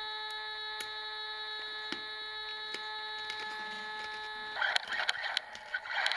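Radio-controlled trophy truck: a steady electronic whine of one unchanging pitch, then about four and a half seconds in a rush of motor and tyre noise with many small clicks and crackles as the truck drives off.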